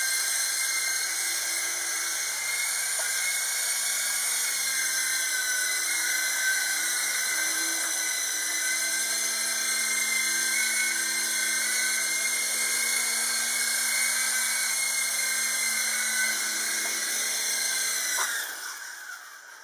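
Small remote-control helicopter's electric motors and rotors whining steadily at a high pitch, then winding down and stopping near the end as it powers off.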